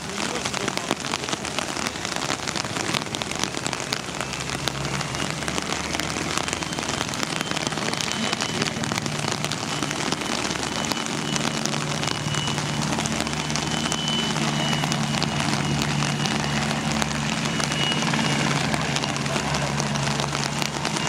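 Steady rain, with many drops striking close to the microphone. From about eight seconds in, the low hum of a helicopter's engines and rotor rises beneath the rain and holds steady, with a faint high whine.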